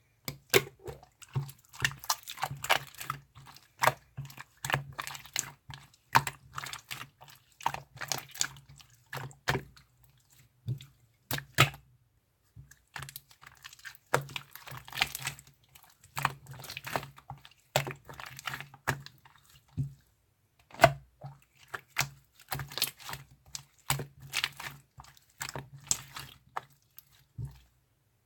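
Wet clicking and crackling sounds in irregular clustered bursts, with a steady low hum underneath.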